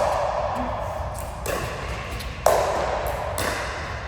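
Racquet strikes in a rally, sharp ringing hits about one a second, alternating louder and fainter, each echoing briefly in a hall.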